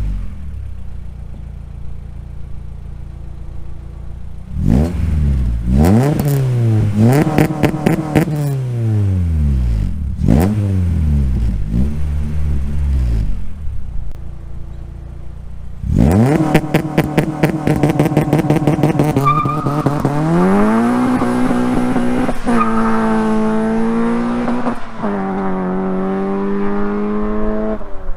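Exhaust of a Honda Civic with a swapped-in H22A inline-four running through Flowmaster and Borla mufflers: idling, then revved several times in quick blips and back to idle. From about halfway it is held at higher revs and pulls up through the gears, the pitch climbing three times with a sharp drop at each shift.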